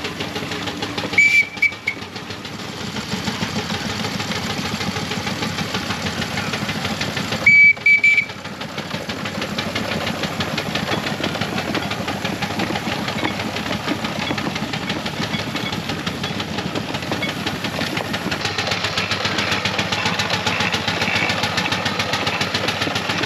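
4-inch scale model of a coal-fired, single-cylinder Burrell agricultural traction engine under steam, its exhaust beating in a fast, steady chuff. Its steam whistle gives two short toots about a second in and two more about seven and a half seconds in.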